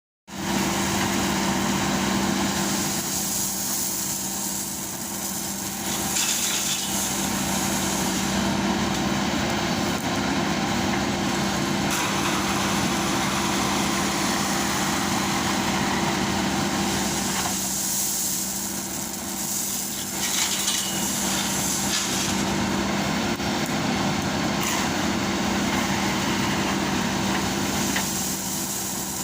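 JCB backhoe loader's diesel engine running steadily under work, a constant low hum with stretches of added noise that swell and fade every few seconds as the machine works.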